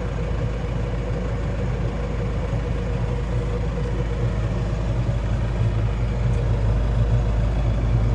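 Case 120's engine running steadily, with a low, even drone that gets a little louder near the end.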